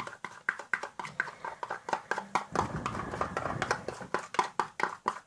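Homemade borax-free slime made from shower gel, liquid soap and salt, squeezed and worked in the hands, making quick wet clicks and squelches several times a second, with a denser squashing stretch about halfway through.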